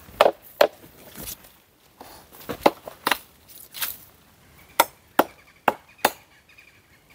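Chopping blows on dry wood: about ten sharp, separate strikes at an uneven pace, a fraction of a second to about a second apart.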